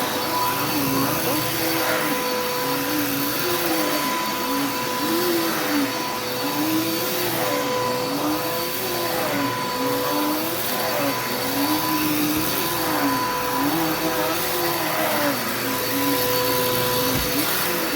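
Vacuum cleaner running steadily on carpet, a constant motor whine over a rushing air noise, with a lower tone that rises and falls about once a second as it is pushed back and forth.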